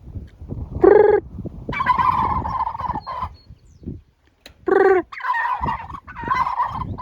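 Male turkeys gobbling: twice a short clear call about a second in and again near five seconds, each followed by a long rattling gobble.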